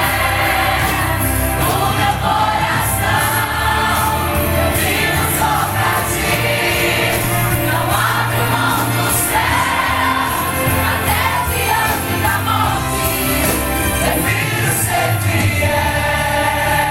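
A group of voices singing a gospel worship song in chorus over instrumental backing.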